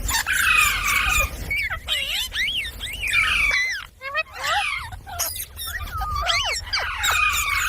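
Parrot giving a rapid string of chirps and squawks: short whistled notes that swoop up and down in pitch, one after another.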